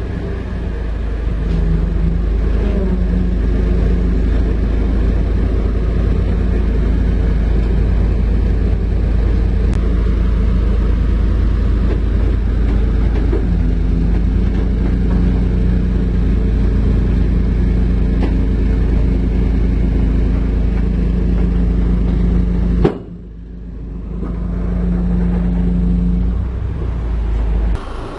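Heavy diesel machinery engine running with a steady deep rumble, its pitch shifting a little now and then. About 23 seconds in the sound drops suddenly, then builds back up, and it changes again near the end.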